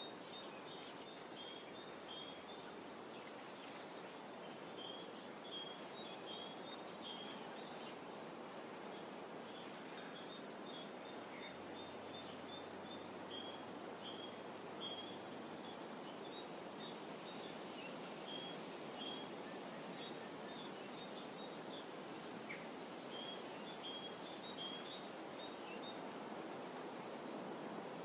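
Small birds chirping over and over in short, high notes above a steady, soft background hiss, with two brief sharp clicks a few seconds in.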